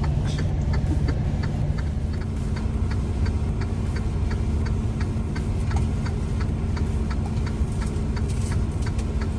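Truck's diesel engine idling steadily, with an even ticking about three times a second over the low rumble.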